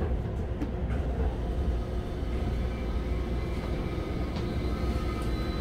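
Steady low rumble heard inside a Keisei 3000-series electric commuter car, with a faint steady tone coming in during the second half.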